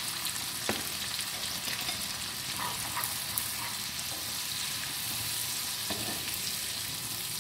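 Tomatoes, green chillies and spices frying in hot ghee in a small pan with a steady sizzle, stirred with a steel spoon that clicks against the pan a few times.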